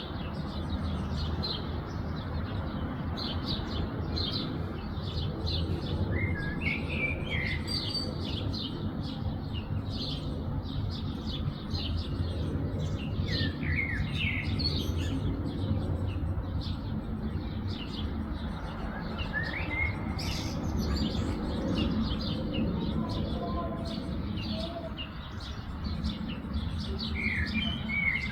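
Several small birds chirping in a continual chorus: quick, many-times-repeated high chirps with now and then a short sliding call, over a steady low background rumble.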